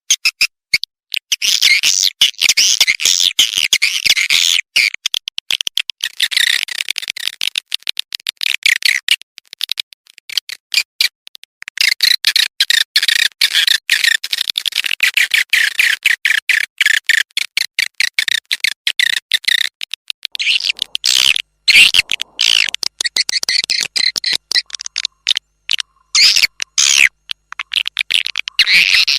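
Swiftlet call recording of the kind played through speakers to lure swiftlets into a nesting house: rapid, high twittering chirps in dense runs, broken by two short pauses.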